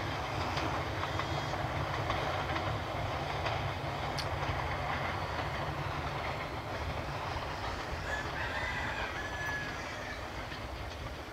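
Passenger train coaches rolling away down the track, a steady rumble that fades slightly toward the end. A brief high-pitched call sounds near the end.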